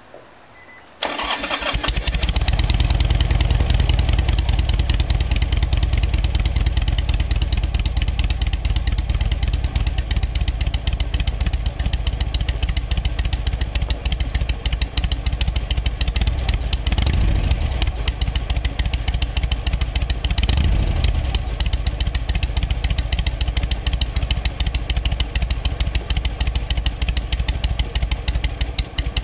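Harley-Davidson Sportster 883R's V-twin, nearly cold, catches about a second in and settles into a loud, loping three-beat idle through North American mufflers with the baffle punch-outs enlarged to 15 mm. Twice, around the middle, the throttle is blipped briefly. The engine is fitted with a Twin Tec TC88A ignition.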